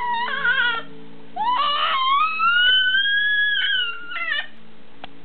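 Kitten meowing: several high, plaintive cries, the longest a drawn-out call that rises in pitch from about a second and a half in, over soft background music.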